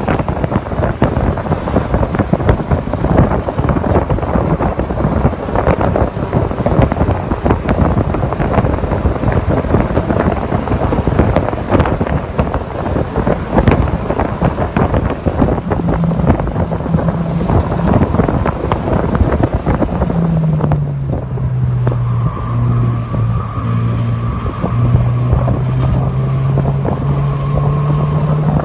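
Mazda MX-5 NC's engine running at speed on a race track, under heavy wind buffeting on the microphone. About two-thirds of the way in the buffeting eases and a steady engine note comes through, dropping in pitch and then climbing slowly.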